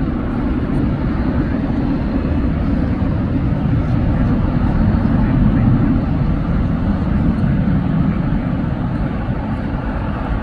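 Jet airliner engines rumbling low and steady, swelling a little around the middle.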